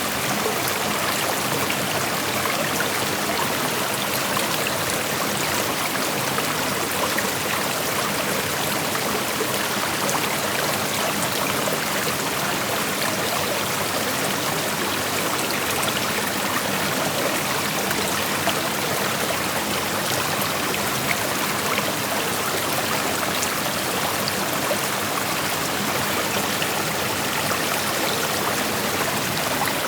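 Creek water flowing over rocks: a steady rushing with fine trickling and splashing detail.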